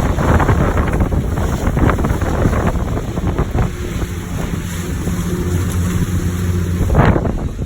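A boat's 250-horsepower outboard motor running with a steady hum, under wind noise on the microphone. There is a brief louder burst of noise near the end.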